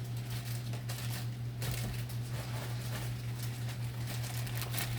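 Packaging of firecrackers being handled: rustling and light taps of boxes and plastic bags, busier from about a second and a half in, over a steady low hum.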